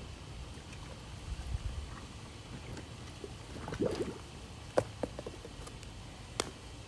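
Water dripping and gurgling around a cordless robotic pool vacuum as it goes into the pool, with a couple of sharp clicks.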